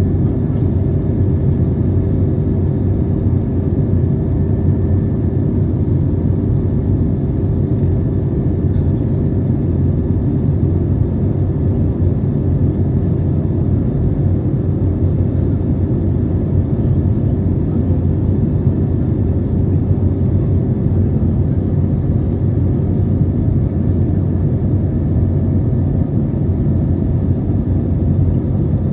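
Airplane cabin noise in flight: a steady low rumble of engines and rushing air, with a faint steady hum.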